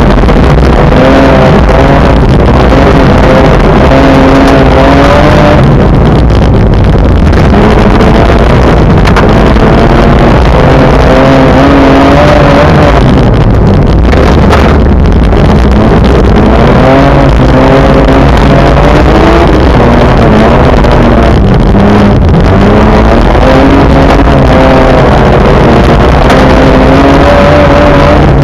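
Car engine heard loud from inside the car, its pitch rising and falling again and again as it is driven along a snow-covered road, over a steady rush of tyre and snow noise.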